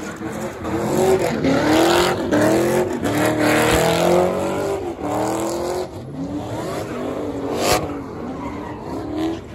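Car engine revving up and down again and again as the car spins donuts, its rear tyres spinning and smoking, with a sharp bang about eight seconds in.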